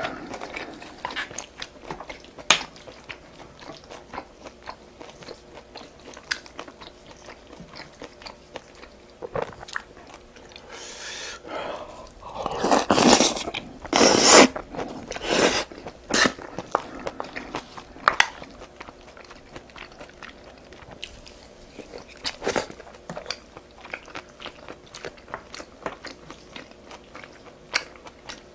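A person chewing food close to the microphone, making many short, sharp mouth clicks, with a louder, noisier stretch of a few seconds around the middle.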